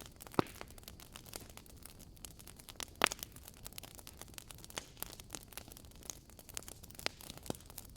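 Wood fire crackling: irregular small snaps and pops over a low hiss, with two louder pops, one under half a second in and one about three seconds in.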